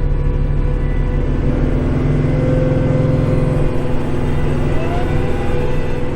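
Kubota tractor's diesel engine running steadily, driving a snow blower, heard from inside the tractor cab, with a short rising whine about five seconds in.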